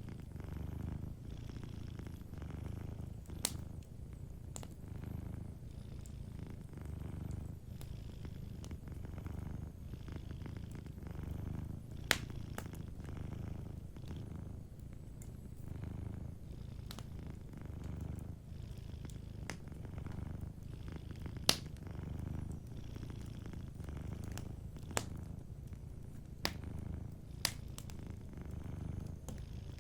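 Cat purring steadily, a low rumble that swells and eases with each breath about every two seconds. A handful of sharp pops from a crackling wood fire stand out over it.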